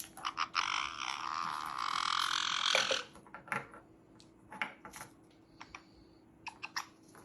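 A pet parrot gives a long, rasping, noisy call for about two and a half seconds, which cuts off sharply. Scattered sharp clicks and a brief high whistle follow.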